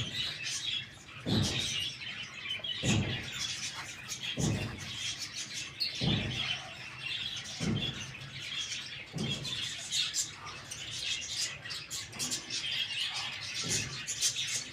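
Many small birds chirping at once, continuously, with short low thuds repeating about every one and a half seconds underneath.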